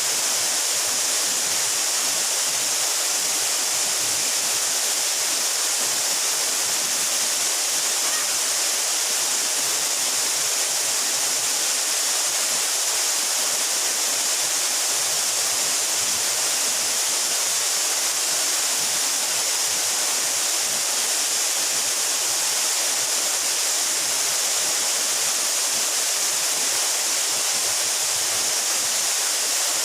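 Mountain waterfall about 12 metres high, water falling and splashing in a steady, even rush with no breaks.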